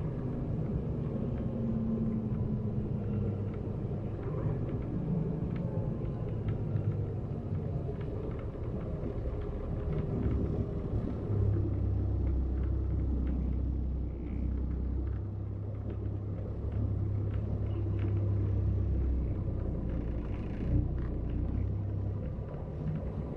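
Double-decker coach on a Scania chassis driving, a steady engine and road rumble. About halfway through the rumble grows deeper and heavier for several seconds.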